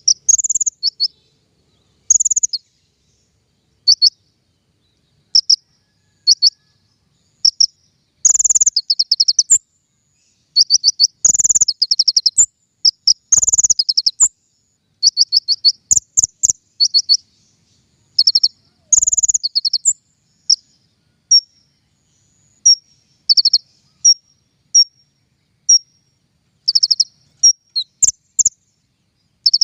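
Songbird that Indonesian bird-keepers call King Konin singing lure song: high-pitched chirps and fast trills in short bursts separated by brief gaps.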